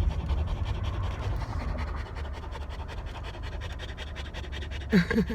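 Steady low rumble of wind and handling noise on a handheld microphone, with a short breathy vocal sound near the end.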